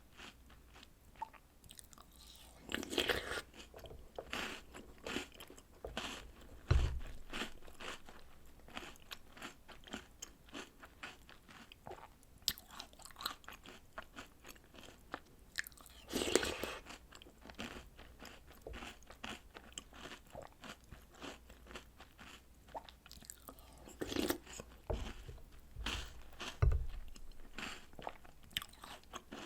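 Chewing and crunching of chocolate cookies and cereal soaked in milk: a steady run of small crisp crunches, with a few louder crunching bites spread through.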